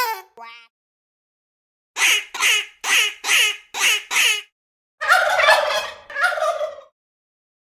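A duck quacking in a quick run of seven quacks, then a turkey gobbling twice from about five seconds in.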